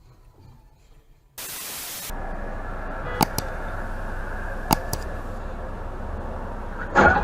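A short burst of static hiss, then steady road and engine noise from inside a moving vehicle, with two sharp clicks and a louder knock near the end.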